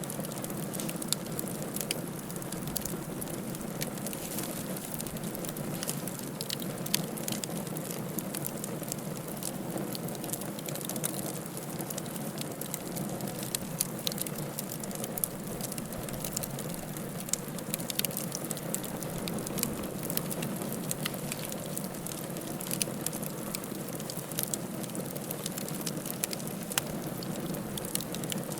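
Wood fire burning in a fireplace: steady low rush of flames with frequent irregular sharp crackles and pops.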